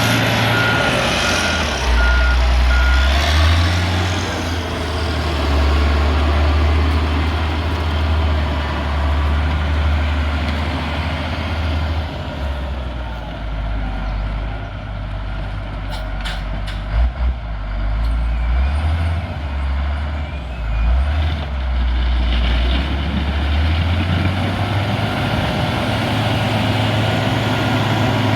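Heavy diesel road-building machine running under load, its low engine note rising and falling. A reversing alarm beeps a few times near the start. A couple of sharp knocks come about two-thirds of the way in.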